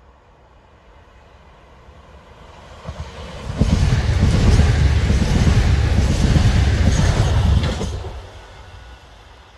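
Southeastern Class 377 electric multiple unit passing at speed a few metres away: its wheel and track rumble builds over a couple of seconds, stays loud for about four seconds as the coaches go by, then dies away quickly.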